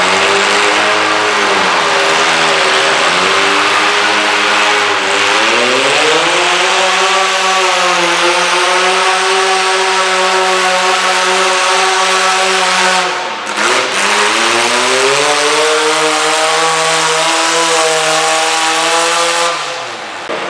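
Modified garden tractor engine running hard under load in a tractor pull: the pitch climbs and holds high, dips sharply once about two-thirds of the way in, climbs back, then drops off near the end as the throttle comes off.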